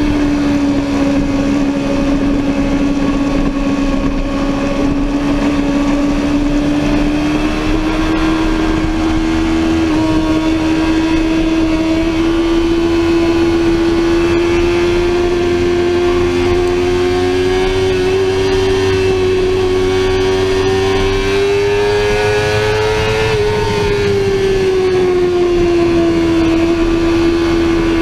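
Sportbike engine running hard at high revs, its pitch climbing slowly and steadily, then falling off fairly quickly near the end as the throttle comes off before levelling again.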